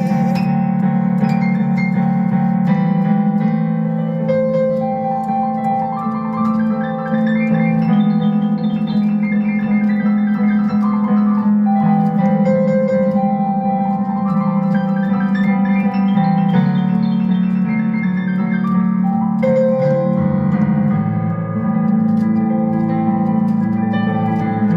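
Instrumental break of a song: a keyboard plays rising and falling melodic runs over steady sustained chords, with no singing.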